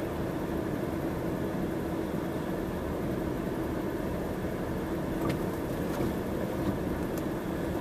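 Snow-plowing tractor's engine running steadily: a constant drone with one steady low hum.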